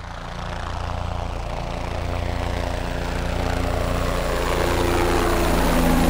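A motor running steadily, a low hum with several held tones that grows gradually louder.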